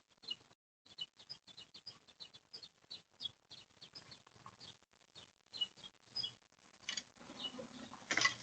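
Faint, short high chirps of small birds, a few a second with brief pauses, heard through a doorbell camera's microphone, with a few clicks near the end.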